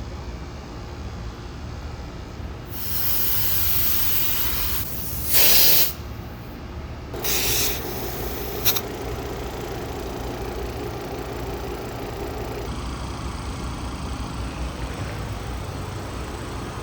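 Refrigerant gas hissing from service hoses and fittings in several short bursts, the loudest about five seconds in, as the refrigerant recovery setup is connected. A steady machine hum joins about seven seconds in, which fits the recovery machine running.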